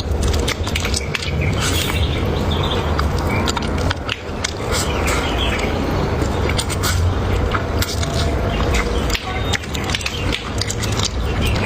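Close-up eating sounds: chewing, smacking and crunching, with many irregular sharp clicks, over a steady low rumble.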